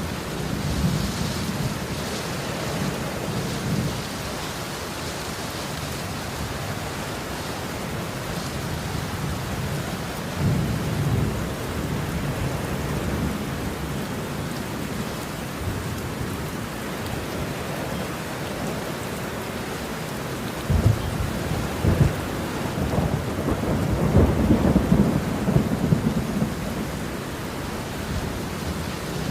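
Steady rain with rolling thunder. Low rumbles come and go, and about two-thirds of the way through a louder, longer peal of thunder breaks in with a couple of sharp cracks.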